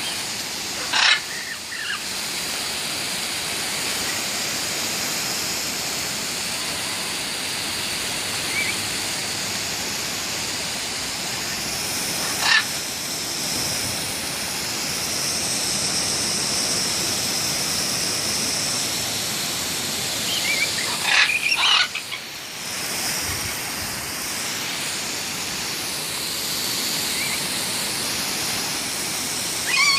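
Steady rush of running water spraying for a pet bird's bath, broken about four times by short, sharp calls from the bird.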